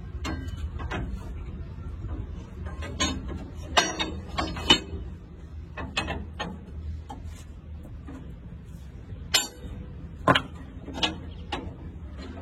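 Irregular metallic clinks and knocks of hand tools on steel truck leaf-spring parts, some ringing briefly, over a steady low hum.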